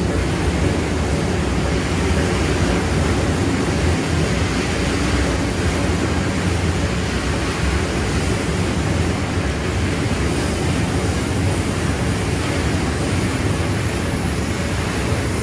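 Odakyu Line electric commuter train passing close by: a steady, loud noise of steel wheels running over the rails.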